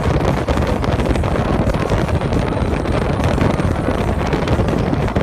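Steady wind buffeting the microphone aboard a moving boat, over a continuous low rumble.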